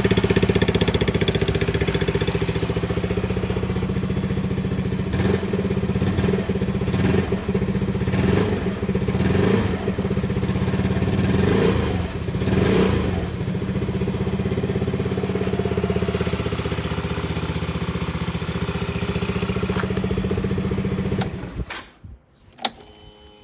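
Yamaha Majesty 125 FI scooter's single-cylinder four-stroke engine running at idle and blipped several times partway through. It then shuts off near the end, followed by a click.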